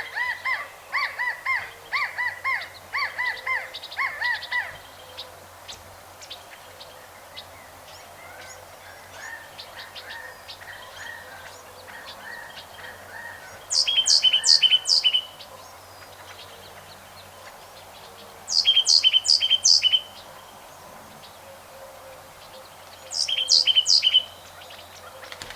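Birds calling: a quick series of repeated harsh calls for the first few seconds, then three loud, high-pitched bursts of rapid notes spaced about five seconds apart, with faint chirping between.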